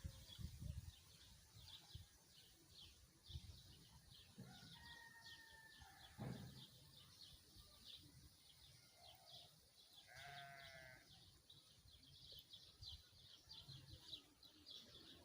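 Faint outdoor ambience with a distant farm animal bleating, most clearly about ten seconds in. Throughout, high chirps repeat a few times a second.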